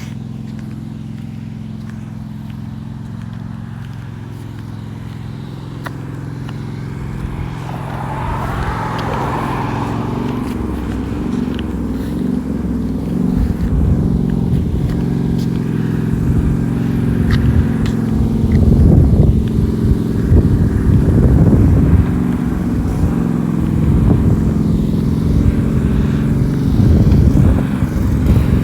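Tractor engine running steadily, growing louder from a few seconds in and loudest after about three-quarters of the way through.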